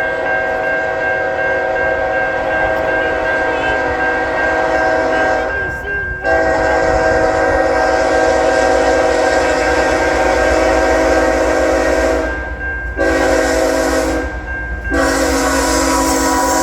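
BNSF freight locomotive's air horn sounding the grade-crossing signal: two long blasts, a short one, and a final long one starting near the end, the signal for a train approaching a public road crossing. Under it runs the low rumble of the moving train.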